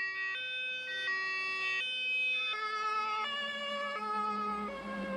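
German fire engine's two-tone siren (Martinshorn) alternating between a high and a low note about every 0.7 s. The notes drop in pitch about halfway through, and a vehicle rumble comes in near the end.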